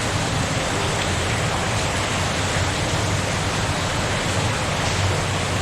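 Steady rushing of water echoing through a long flooded tunnel, the rumble of falling water somewhere ahead mixed with the stream running through it.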